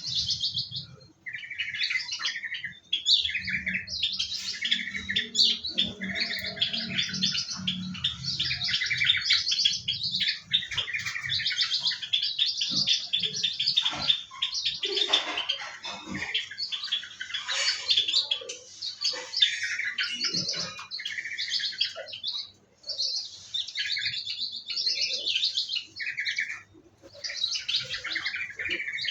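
Many small caged birds in an aviary chirping and twittering over one another in a dense, continual chorus, with brief lulls about two-thirds of the way in and again near the end.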